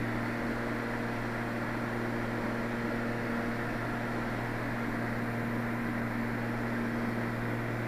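Steady drone of a twin-engine Cessna 320 Skyknight's piston engines and propellers in level flight, heard through the pilot's headset microphone in the cabin. It holds an even low hum with no change in pitch.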